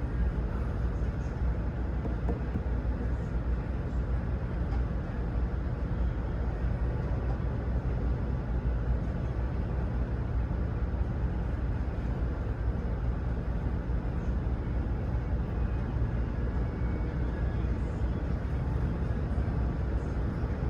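Idling engine: a steady low rumble that holds unchanged throughout.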